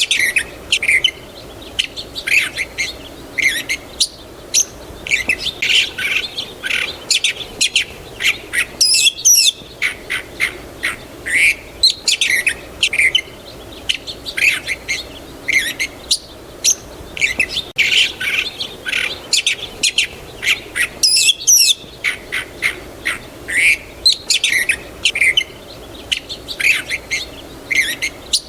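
Many songbirds chirping and calling together in short, busy calls, over a faint steady background hum. The same stretch of calls seems to come round again about every twelve seconds, as in a looped recording.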